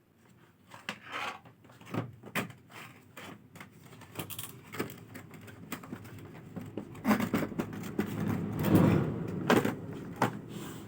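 Objects being handled: irregular clicks, knocks and rustling, loudest about seven to nine seconds in.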